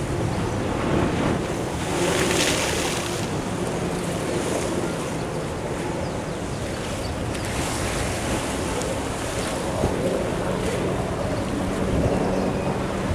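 Ocean waves washing in against the sea wall, one surge of spray-like hiss about two seconds in, with wind buffeting the microphone.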